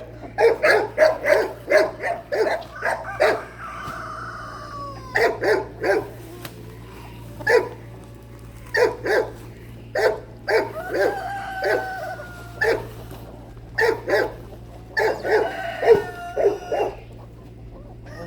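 Dogs barking in quick repeated runs, about three barks a second for the first few seconds, then in sparser bursts with some longer drawn-out calls among them.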